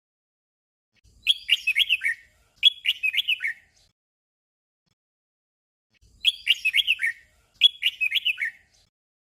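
Red-whiskered bulbul singing a short warbling phrase twice in quick succession, the doubled song, then after a pause of about two seconds singing the same doubled phrase again.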